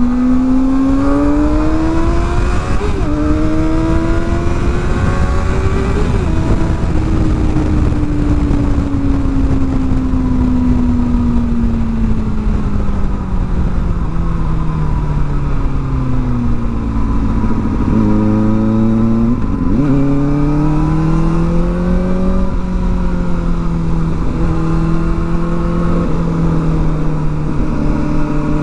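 Kawasaki ZX-4R's 400 cc inline-four engine through an aftermarket exhaust while riding. It accelerates through the gears, with upshifts about 3 and 6 seconds in, then slows gradually over about ten seconds, blips twice around the downshifts, picks up again and holds a steady pitch near the end.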